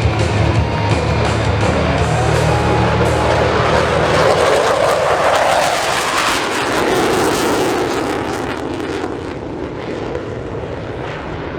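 A-4 Skyhawk jet making a fast pass. Its noise builds to a peak about five seconds in, then drops in pitch and fades as it goes away.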